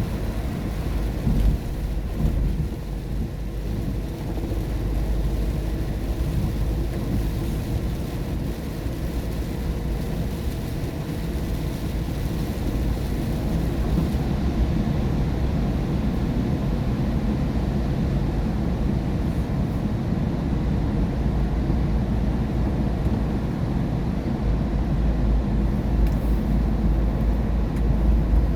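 A steady low rumble of tyres and engine heard from inside a car driving at highway speed on a wet road, with an even hiss of rain and spray over it. The hiss thins about halfway through.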